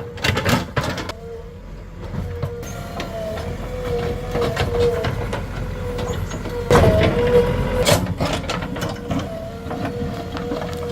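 JCB 3DX Plus backhoe loader working: its diesel engine running with a steady, slightly wavering whine, and irregular knocks and scrapes of the bucket against stone, loudest about a second in and around seven and eight seconds in.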